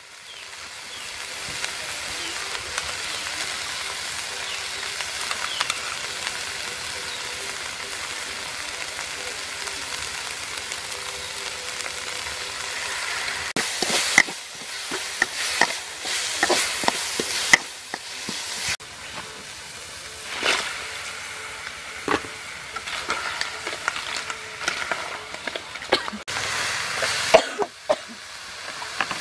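Chopped spice paste frying in hot oil in a metal wok, with a steady sizzle. From about halfway through, a metal spatula scrapes and clanks against the wok in quick irregular strokes as the paste, and later crabs, are stir-fried.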